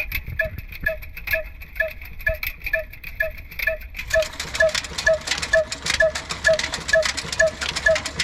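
Old black desi diesel engine, a slow-speed single-cylinder type, running steadily with an even beat of about two and a half strokes a second, each stroke a short ringing knock. About four seconds in, a louder hissing rush joins it.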